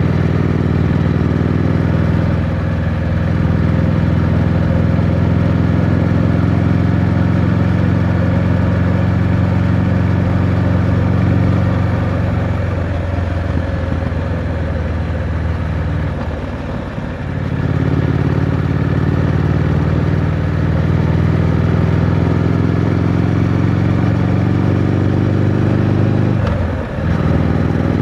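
Triumph Scrambler 900's parallel-twin engine running under way through its stock exhaust, a steady note that drops away briefly twice, around the middle and near the end, before picking up again.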